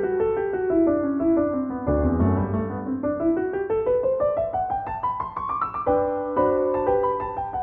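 Piano music: a quick run of notes stepping downward, then a long rising run, breaking into held chords about six seconds in.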